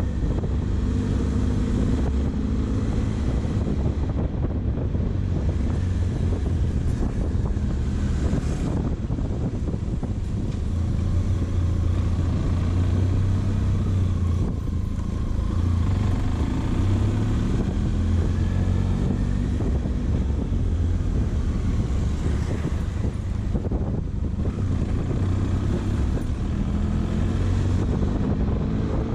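Benelli motorcycle engine running under way, a steady low hum with road noise, its pitch rising a couple of times as it accelerates.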